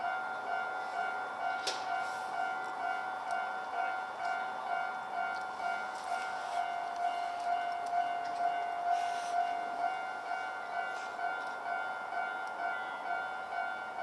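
Japanese level-crossing warning alarm ringing, one pitched electronic ding repeating about twice a second, with a few faint clanks from the railway.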